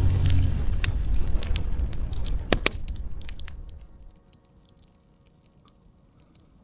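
Campfire crackling: scattered sharp pops and snaps over a low rumble, fading out about four seconds in, with a few faint pops after.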